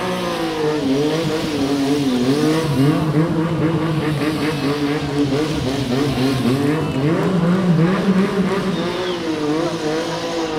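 Stunt motorcycle engine revved hard and held at high revs, its pitch wavering up and down as the bike is drifted in tight circles with the rear tyre sliding.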